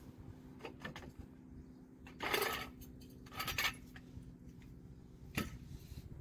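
Metal tools and brake parts clinking and scraping in a handful of separate knocks, one longer scrape a little past two seconds in, over a faint steady hum.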